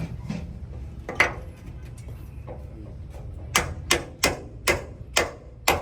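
Hammer blows on metal, each with a short ring: one strike about a second in, then about six strikes at roughly two a second from halfway on, over a steady low hum.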